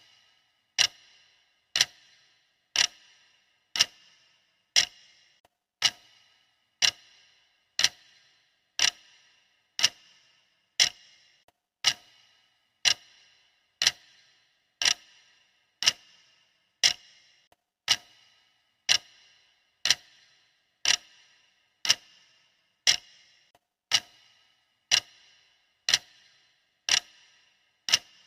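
Clock-style ticking of a countdown timer, one sharp tick each second at a perfectly even pace, each tick with a short ringing tail.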